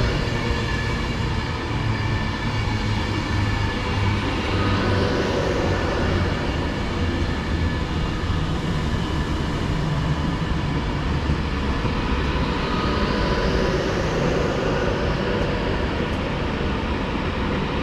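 Avanti West Coast Class 390 Pendolino electric train running in the station: a steady low rumble with a constant electrical whine, and a high hiss that swells and fades a few times.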